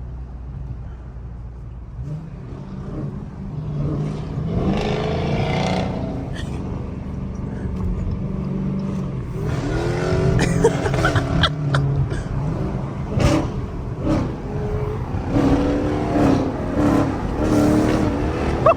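V8 muscle-car engines running and revving, the exhaust noise building over the first few seconds and staying loud.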